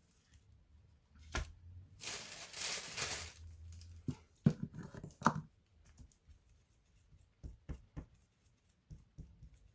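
Hands working on an opened laptop: a rasping, tearing-like noise for about two seconds, then a few quick knocks and clicks of small parts being handled, with faint ticks after.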